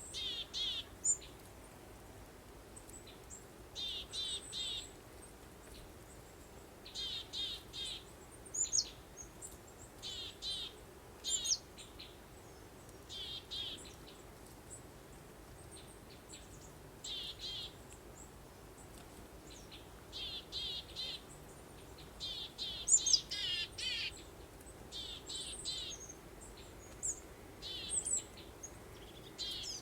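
Songbirds chirping in short clusters of three or four quick high notes, repeated every second or two. Under them runs a faint, steady breeze.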